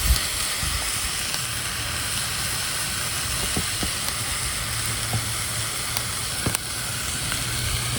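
Lamb's quarters greens sizzling steadily in oil in a cast iron pan, with a few faint pops.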